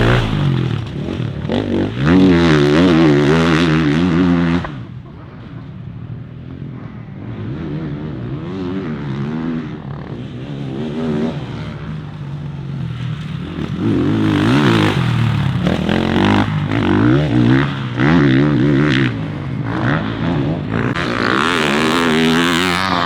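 Motocross bike engine revving hard as it is ridden on a dirt track, its pitch rising and falling with the throttle. It is loud for the first few seconds, drops back at about five seconds in, and comes loud again for the last third.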